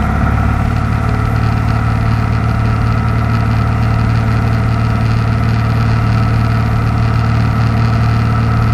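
The Continental O-300 six-cylinder engine of a 1960 Cessna 172 running steadily, with an even drone and no change in pitch.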